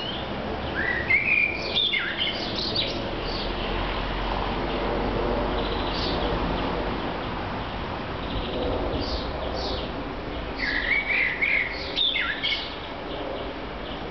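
Songbird singing in two short warbled phrases, about a second in and again about three-quarters of the way through, with a few single chirps between, over a steady low background noise.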